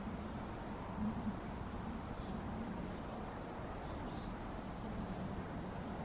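A songbird chirping faintly, a string of short high notes about every half second that trails off after about four seconds, over a steady low background rumble.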